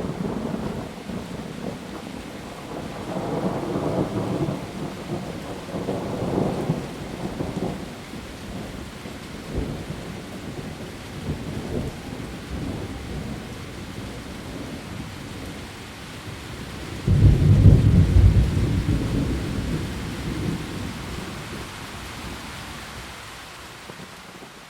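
Heavy rain falling steadily with thunder: rolling rumbles in the first several seconds, then a sudden, louder thunderclap about 17 seconds in that rumbles away over the following seconds.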